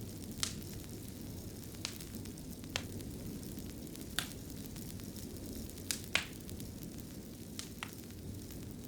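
Wood fire crackling in a fireplace: about eight sharp pops at uneven intervals, the loudest about six seconds in, over a steady low rumble of the flames.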